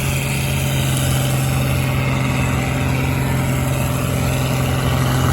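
Farm tractor engine running hard and steady, a constant deep drone, as the tractor pulls down the track.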